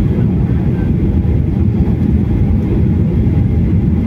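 Steady low rumble of a vehicle in motion, even throughout with no distinct events.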